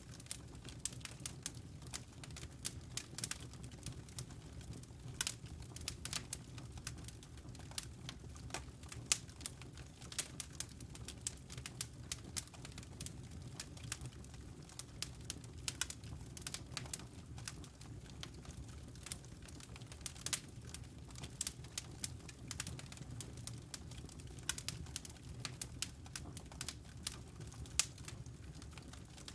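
Wood fire crackling, with frequent irregular pops and snaps, over a steady low rumble.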